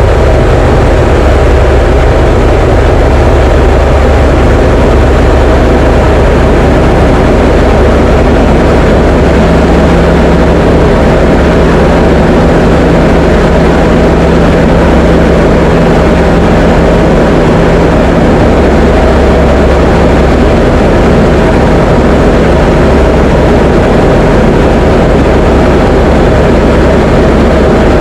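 Diamond DA20 light aircraft's piston engine and propeller droning steadily in flight, with a steady hum that shifts slightly about nine seconds in.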